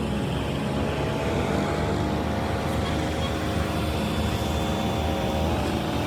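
An engine running at a steady speed, its pitch shifting slightly about five and a half seconds in.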